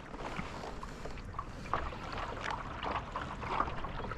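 Water lapping and trickling against a kayak hull as it moves along, with small irregular splashes and drips.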